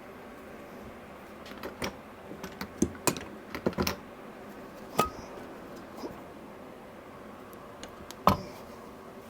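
An irregular series of sharp clicks and light knocks, as of small hard objects being handled. They cluster in the middle, and a few have a brief ringing tone. The loudest knock comes near the end.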